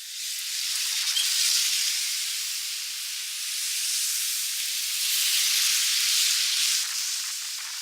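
Heavy rain falling: a steady hiss that swells a little and eases off.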